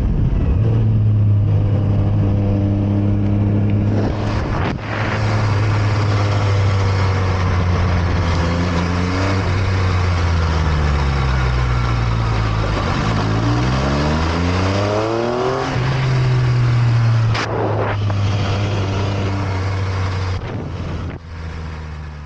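MV Agusta F3 675 inline three-cylinder engine running hard on track. Its pitch holds steady, falls for a few seconds as the bike slows, then climbs quickly under acceleration with a sharp break like a gear change. It drops away near the end.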